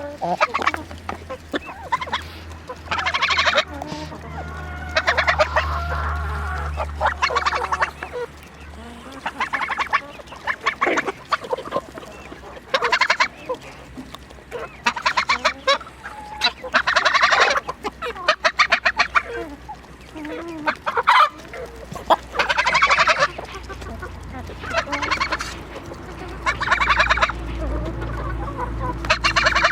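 Chickens clucking and calling over and over, in short bouts every second or two, with a low steady rumble underneath during the first and last stretches.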